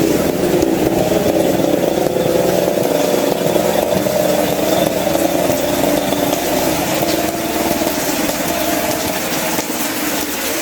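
Heavy rain falling steadily on roofs and ground, a dense hiss with a wavering low drone beneath it that eases slightly toward the end.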